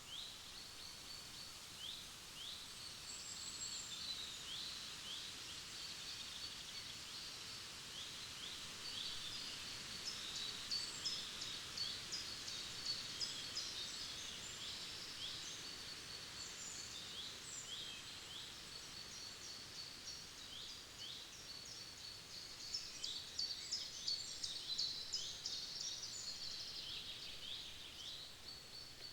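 Several wild birds singing in a forest, a dense chorus of short high chirps, trills and repeated notes, with busier stretches about a third of the way in and again near the end.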